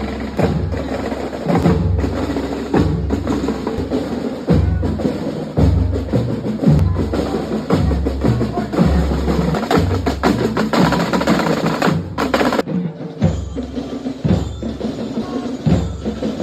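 Drum-heavy music: repeated bass and snare drum hits with woodblock-like clicks. The sound changes abruptly about three-quarters of the way through.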